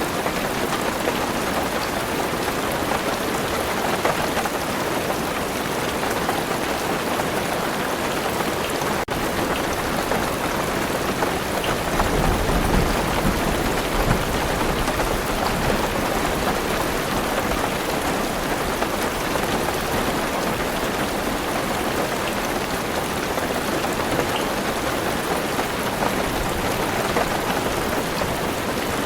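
Heavy rain falling on a car roof, a dense steady hiss of drops. A low rumble of thunder comes in about twelve seconds in and dies away a few seconds later.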